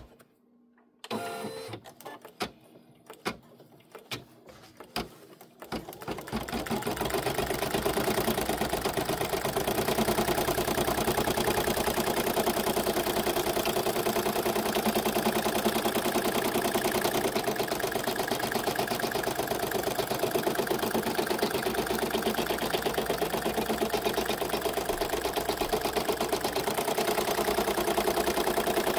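A few clicks and a short beep, then an embroidery machine starts stitching about six seconds in and runs steadily, its needle going up and down in a fast, even rattle.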